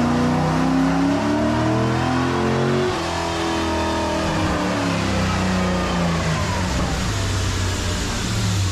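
Car engine running and revving, its pitch rising and falling.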